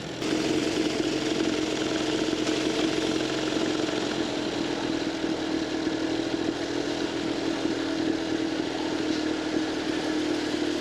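Vintage Scott two-stroke twin motorcycle engine running at a steady pace while riding, its note holding even.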